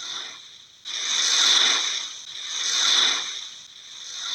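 Rushing water noise, like the sea heard underwater, swelling and fading in slow surges about every second and a half.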